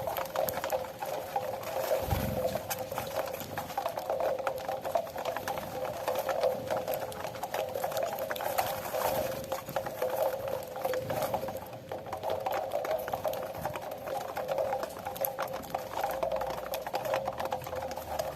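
A flock of saffron finches feeding, a dense, steady patter of many quick small chirps and clicks.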